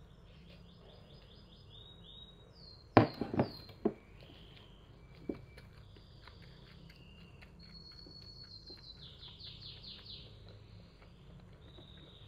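A small bird chirping and trilling over and over, in quick high runs of notes. About three seconds in, a quick cluster of sharp knocks, the loudest thing, with one more a couple of seconds later.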